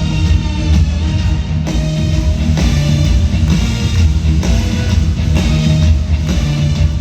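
Live rock-pop band music played loud over an arena PA, with guitar and a drum kit keeping a steady beat.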